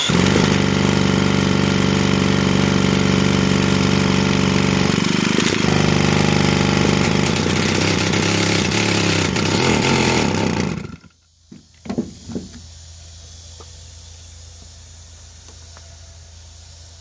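Stihl 028 Wood Boss chainsaw's two-stroke engine running, its pitch shifting about halfway through, then cutting out suddenly after about eleven seconds. A few short clicks follow.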